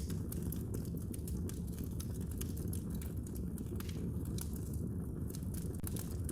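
Wood fire crackling in a fireplace: many small, irregular pops and snaps over a steady low rumble of the burning fire.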